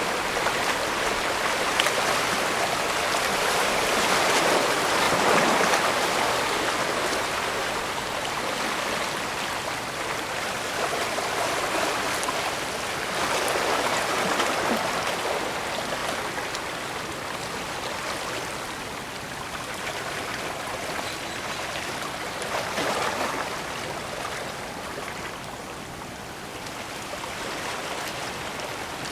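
Small waves in a bay washing and splashing, a steady rush of water that swells up three times, roughly every nine seconds.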